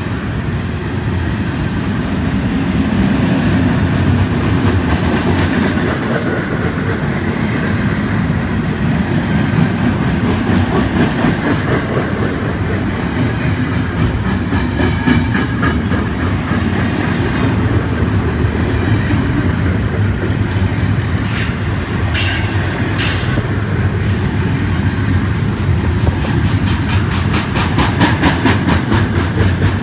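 Freight train of container-laden well cars rolling past, a loud steady rumble and rattle of steel wheels on rail. Toward the end comes a quick run of regular clicks as wheels cross rail joints.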